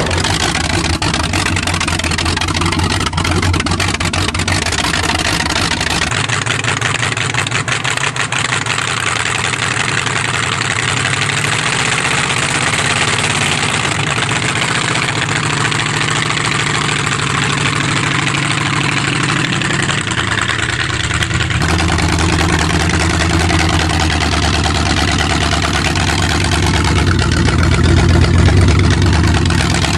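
Carbureted car engine running just after a cold start on choke, a steady low engine note that changes abruptly about six seconds in and again about two-thirds of the way through, and gets a little louder near the end.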